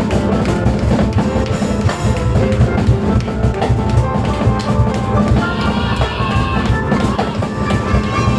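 Piano, cajon and drum kit playing live together: a dense, fast drum beat under piano lines, with the piano moving into a higher run about two thirds of the way through.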